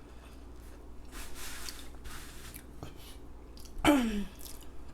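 A woman chewing food, with a breath about a second in, then a short vocal sound that falls in pitch about four seconds in.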